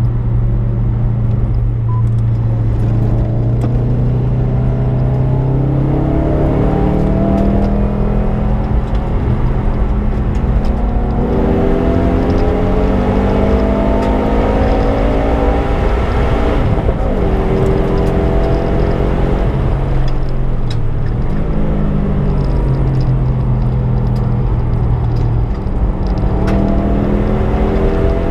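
Subaru Impreza's flat-four engine on track. It holds a steady note at first, then revs up again and again in rising sweeps, dropping back between gear changes. It settles to a steady note once more before pulling up through the revs again near the end.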